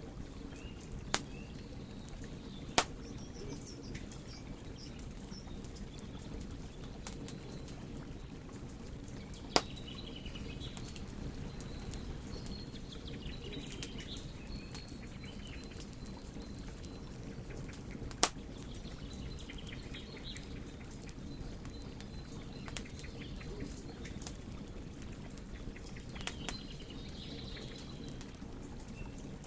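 Wood fire crackling: a steady low rush from the flames with frequent small crackles and four sharp, loud pops spread through it.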